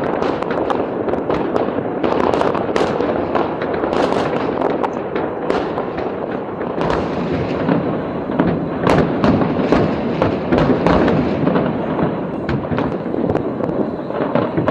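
Fireworks display: a continuous dense crackle with many sharp bangs and pops coming in quick succession.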